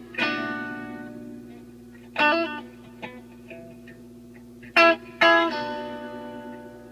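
Guitar chords strummed in a song's instrumental passage: struck about a quarter second in, again around two seconds in, then twice in quick succession near five seconds, each left to ring out and fade, over a steady low held note.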